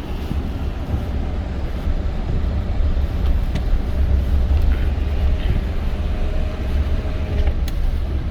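Toyota Tundra pickup driving: a steady low rumble of engine and tyres, with a few faint clicks.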